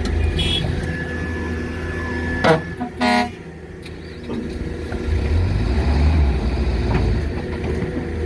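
Hydraulic excavator's six-cylinder diesel engine working under load while digging rock. About two and a half seconds in there is a sharp knock, then a short, loud, horn-like blare, and the engine note swells from about five seconds in as the machine strains against the rock.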